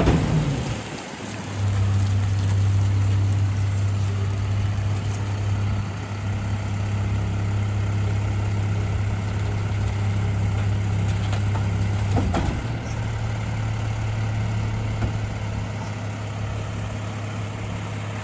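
Garbage truck engine revved up to drive the hydraulic packer, running with a steady low hum as the load of Christmas trees is compacted. There is a single sharp knock about twelve seconds in.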